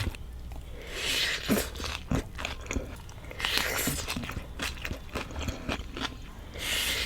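Raw vegetable salad being bitten and chewed, with three loud crunching bouts a few seconds apart and small wet clicks of chewing between them.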